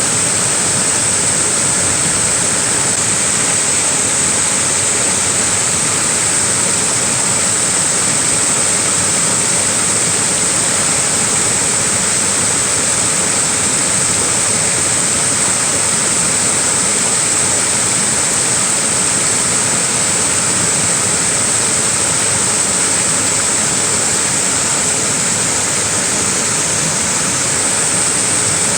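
Small waterfall rushing steadily: an even, unbroken wash of falling water with a strong high hiss.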